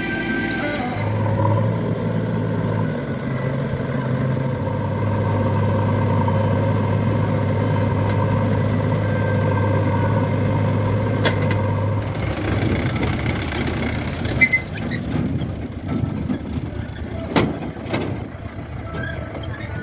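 Heavy diesel engine running steadily with a low hum; about twelve seconds in the note changes and turns rougher, with a few sharp knocks in the second half.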